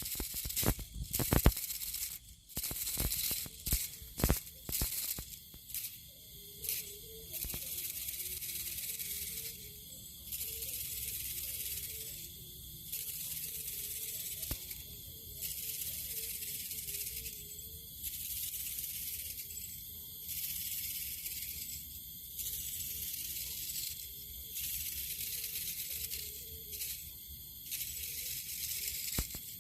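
Bundle of thin bamboo strips shaken in repeated strokes, a dry hissing rattle in spells of about two seconds with short breaks between, used to lure field rats. A faint wavering hum from a kite's bow hummer sounds behind it, and sharp clicks come in the first few seconds.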